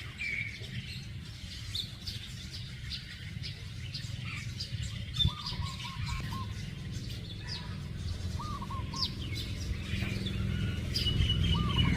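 Birds chirping outdoors: many short, high chirps and a few quick repeated whistled notes, over a steady low rumble, with one sharp click about five seconds in.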